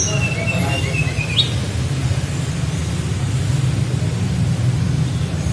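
A tledekan flycatcher singing a short run of flute-like whistled notes, the 'nyuling' song, ending in a quick rising whistle about a second and a half in. A steady low hum lasts throughout.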